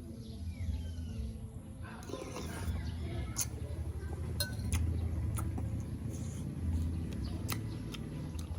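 Sharp clicks and smacks of eating, with a faint bird chirp near the start over a steady low hum.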